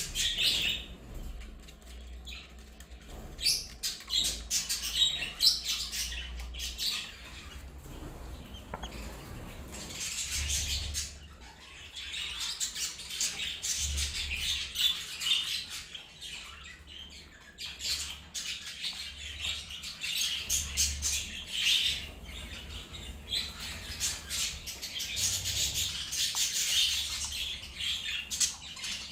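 A group of budgerigars chattering and chirping continuously, busier in a couple of stretches.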